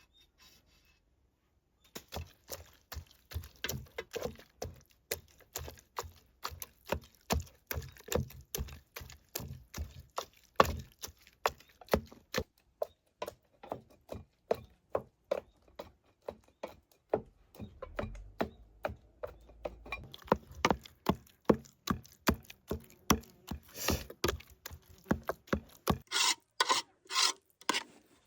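Steady repeated knocking on wood, about two strikes a second, with a few sharper clacks near the end.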